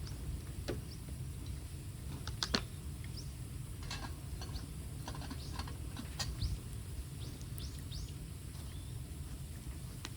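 Bamboo burning in an open fire, crackling with irregular sharp pops, the loudest about two and a half seconds in, over a low steady rumble.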